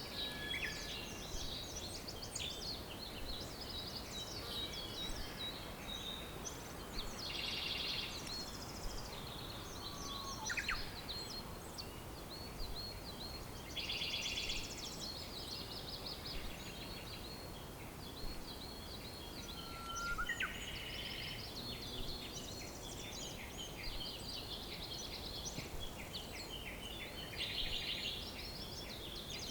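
A chorus of several songbirds singing at once: dense high chirps with repeated trills every few seconds and a few lower whistled notes, over a steady background hiss.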